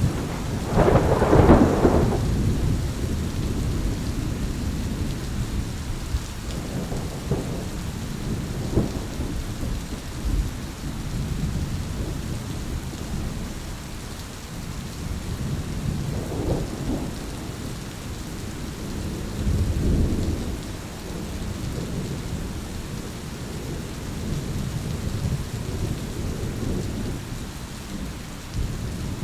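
Thunderstorm: steady rain with rolling thunder. A loud crack of thunder about a second in, then fainter rumbles recur through the rest.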